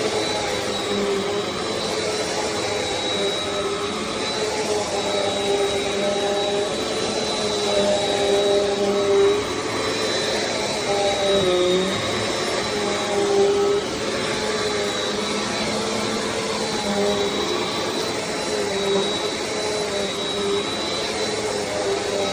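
Bissell CleanView Compact upright vacuum running steadily: a constant high whine over a motor hum whose pitch wavers and dips a little now and then.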